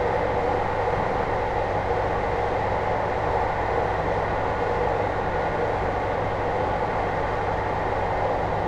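JR Hokkaido 721 series electric multiple unit running at a steady speed, heard from inside motor car MoHa 721-4202, which has a Toshiba GTO inverter. A continuous rolling noise carries a few steady tones and a low hum, with no rise or fall in pitch.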